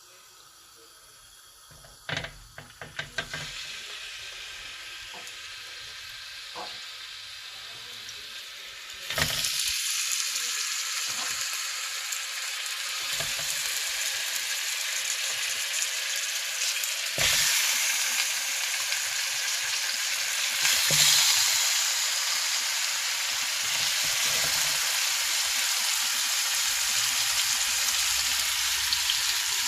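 Chicken pieces frying in hot oil on a large, thin-based tawa pan. A few knocks about two seconds in, then a quiet sizzle that jumps to a loud, steady sizzle about nine seconds in as pieces go into the oil, growing louder again twice as more are added.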